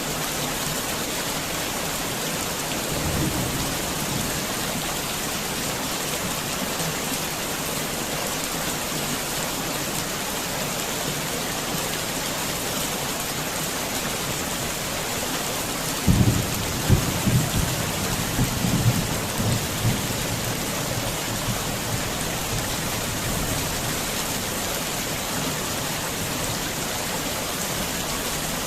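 Heavy rain falling steadily. A faint low rumble of thunder comes about three seconds in, and a louder, rolling rumble a little past halfway lasts about four seconds.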